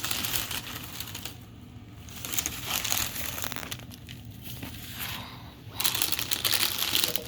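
Wrapping being crinkled and pulled off an item while unboxing, in three spells of rustling with short pauses between.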